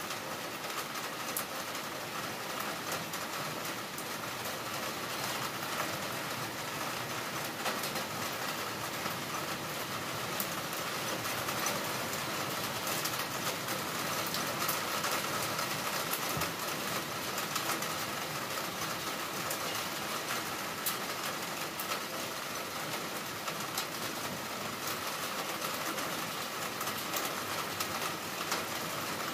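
Heavy rain falling steadily: a dense hiss with many small sharp drop ticks.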